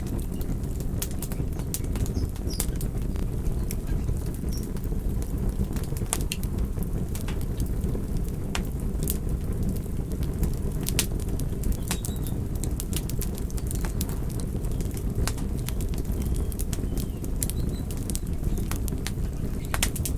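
Campfire crackling: irregular sharp pops and crackles, several a second, over a steady low rumble of the burning fire.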